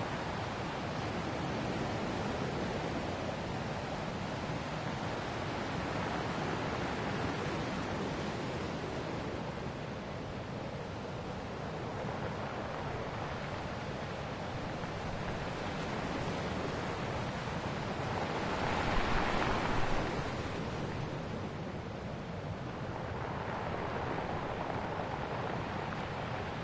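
Ocean waves washing ashore in a steady wash of surf that swells and fades slowly, with one stronger wave breaking about nineteen seconds in.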